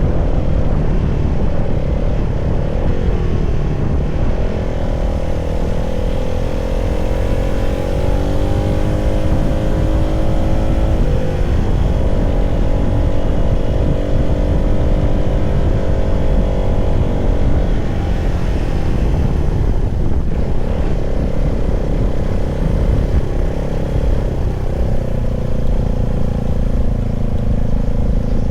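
CFMoto 300SR's single-cylinder engine pulling under way. Its note dips, climbs, steps abruptly about a third of the way through, holds steady, then drops and settles again over a heavy low rumble.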